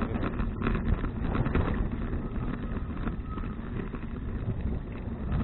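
Wind rumbling on an action camera's microphone while riding a bicycle, with a few short knocks scattered through.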